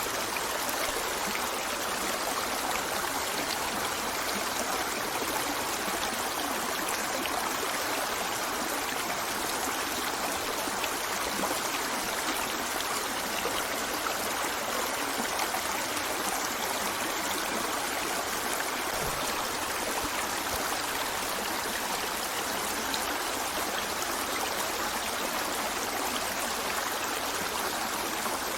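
River water flowing steadily over rocks, an even rushing with fine trickling and splashing.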